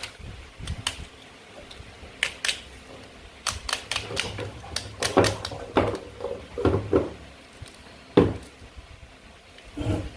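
Toy play-food pieces clicking and knocking as they are handled and cut: a run of irregular sharp clicks, busiest in the middle, with one louder knock about eight seconds in.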